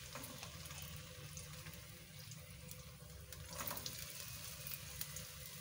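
Diced raw potatoes sizzling in hot oil with cumin seeds in a wok: a steady hiss with small crackling pops, a little louder about three and a half seconds in.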